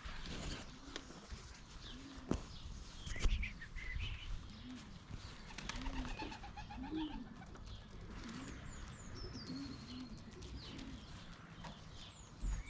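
Pigeons cooing in a run of low, arched coos, with small wild birds chirping high over them and a sharp click about two seconds in.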